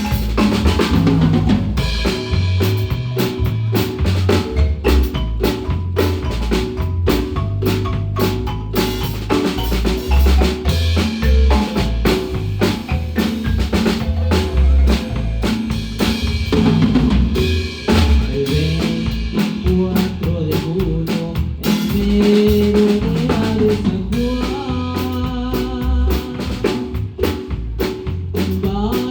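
Guatemalan marimba band playing an instrumental piece live, marimba notes over a drum kit with snare rimshots and bass drum, with a moving bass line underneath.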